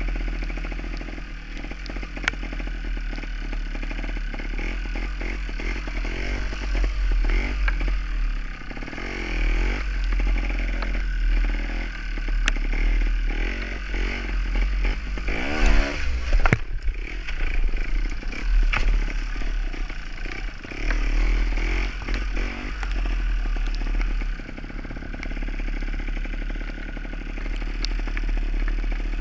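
Gas Gas trials motorcycle's two-stroke single being ridden, the engine revving up and down as the throttle is worked, with a sharp rev rise and drop about halfway through. Wind rumbles on the microphone, with occasional clattering knocks from the bike.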